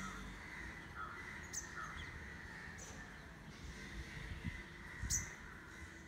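Birds calling: a few short, sharp high chirps, the loudest about five seconds in, over softer, lower calls.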